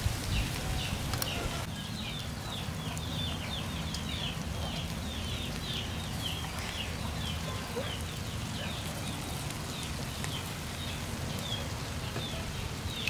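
Birds chirping: a long run of short, high chirps that slide downward, a few each second, over a low steady rumble.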